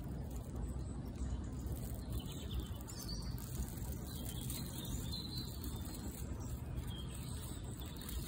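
Birds chirping faintly over a low, steady outdoor rumble.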